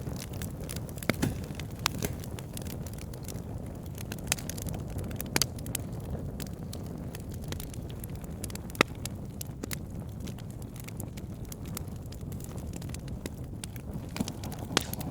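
Wood fire burning with a steady low rumble of flames and irregular sharp crackles and pops of burning logs; one pop about nine seconds in is louder than the rest.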